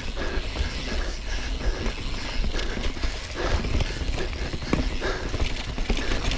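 Yeti SB4.5c mountain bike riding down a rooty, rocky singletrack: a steady low rumble of tyres and rushing air, with frequent short knocks and rattles as the bike hits roots and rocks.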